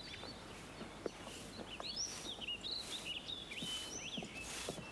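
Birds chirping in a cartoon soundtrack's countryside ambience: a string of short, quick chirps and whistled notes.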